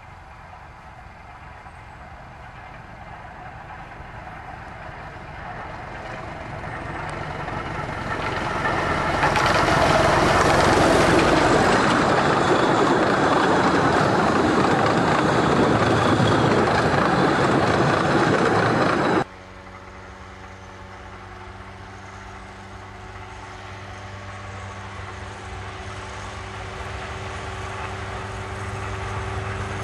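A 15-inch-gauge train headed by the 2-6-2 steam locomotive Northern Rock approaches and passes close by, a rumble of wheels and carriages that builds over about ten seconds and holds loud. About two-thirds of the way in it cuts off abruptly, and a diesel locomotive's engine is heard running with a steady hum that slowly grows louder.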